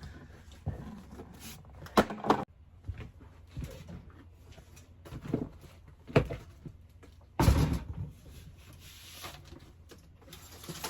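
Irregular knocks and thuds of objects being handled and moved around, with two sharp bangs about two seconds in and a heavier thud a little past the middle.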